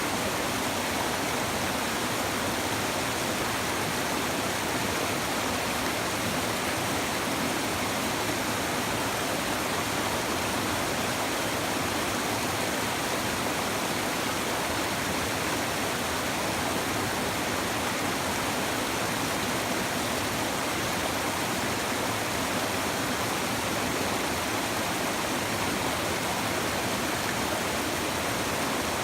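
A shallow river babbling and rushing steadily over stones, an even continuous wash of water noise with no breaks.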